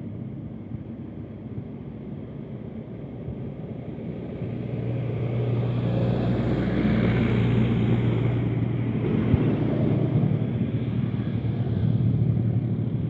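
Heavy truck's diesel engine running on an uphill climb, getting louder about four and a half seconds in and staying loud.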